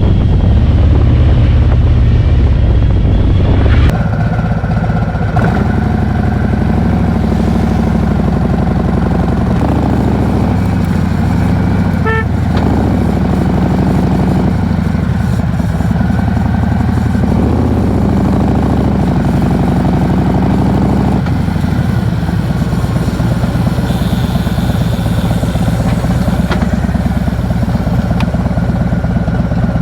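Harley-Davidson V-twin motorcycle being ridden, its engine note rising and falling several times as it pulls along.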